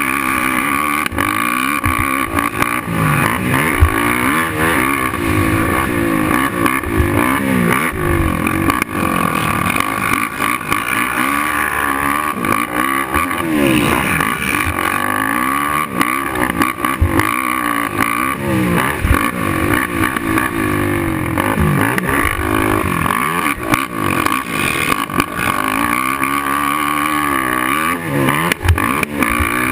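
Suzuki LTR450 quad's single-cylinder four-stroke engine being ridden hard around a motocross track, its revs rising and falling again and again with the throttle. Occasional sharp knocks come through, the loudest about four seconds in.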